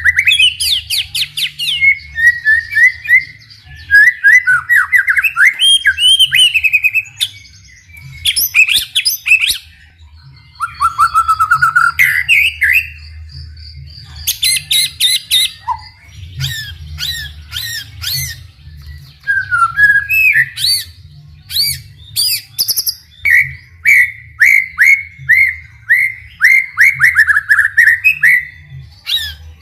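White-rumped shama (murai batu) singing a long, varied song of whistled glides, fast trills and rapid repeated notes in quick succession, with a run of repeated down-slurred notes near the end. A faint low hum lies under it.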